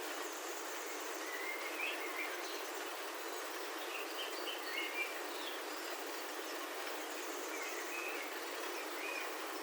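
Steady rain on a roof heard from inside, an even hiss, with short bird chirps over it in a few brief clusters.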